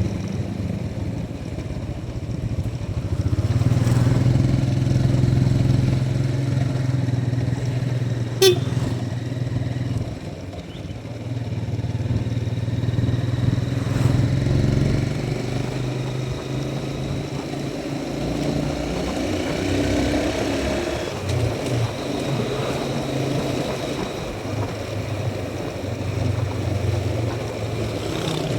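Motorcycle engine running while the bike is ridden on the road, the engine note easing off briefly about ten seconds in. There is a single short, sharp sound a little before that.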